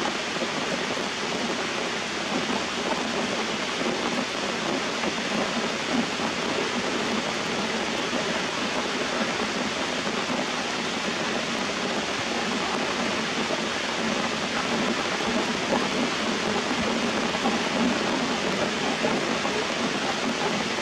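Steady rain falling on foliage and rocks: an even, unbroken hiss.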